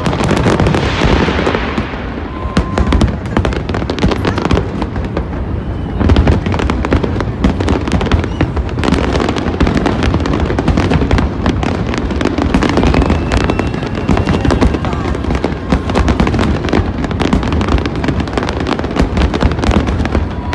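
Fireworks exploding in a dense, unbroken barrage of booms and crackling bursts.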